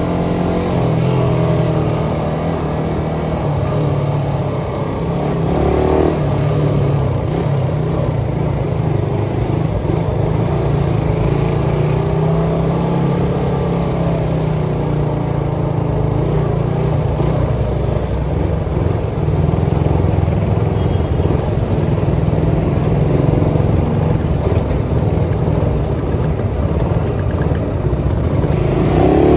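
Suzuki Satria FU 150's single-cylinder four-stroke engine running through an aftermarket Thai CBU racing exhaust, its revs rising and falling throughout, with a sharp rise in pitch right at the end.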